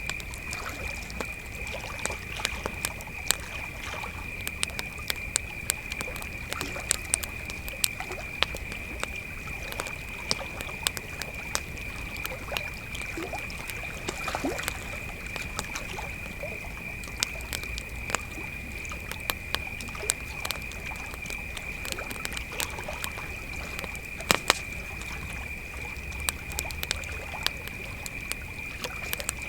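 Crickets trilling steadily on one high pitch while a campfire crackles with frequent sharp pops, the loudest about three-quarters of the way through, over a low steady rumble.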